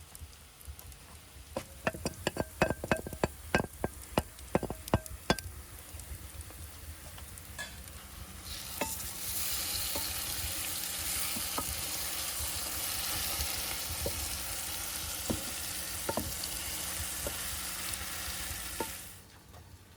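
A run of sharp knocks and clicks for a few seconds, then vegetables frying in a pan: a steady sizzle that starts about nine seconds in, with a few light clicks of stirring, and cuts off suddenly near the end.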